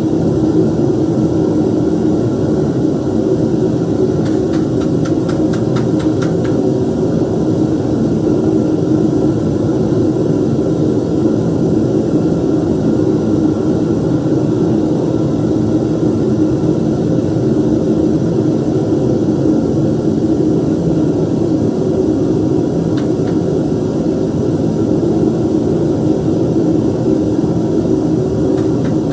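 Home-made metal-melting furnace running: a loud, steady, even rushing noise that does not change.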